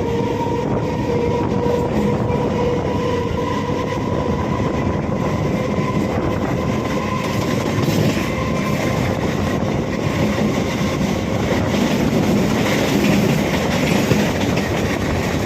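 EMU electric local train running on the track: a steady rumble with wheel clatter, and a steady whine that fades out after about four seconds.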